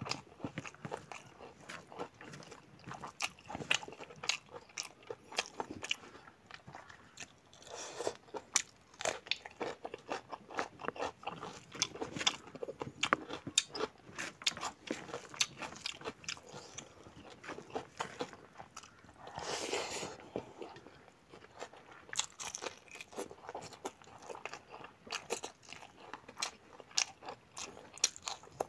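Mouth sounds of a person eating pork curry with rice: wet chewing with many sharp crunching clicks throughout, and a bite into raw cucumber near the end.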